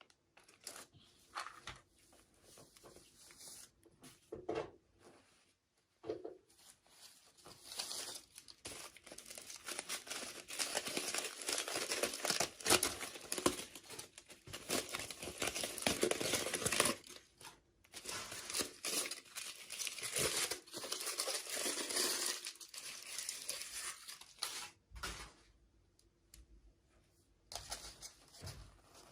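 Toy packaging being torn open and crumpled by hand. A few short rips and crinkles come at first, then a long stretch of steady tearing and crinkling, which thins out to scattered rustles near the end.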